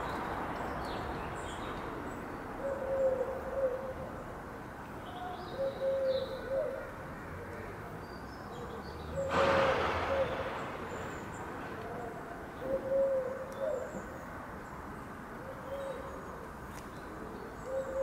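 Low hooting, cooing bird calls: a short phrase repeated about every three seconds over a steady background hiss. About halfway through comes a brief rush of noise.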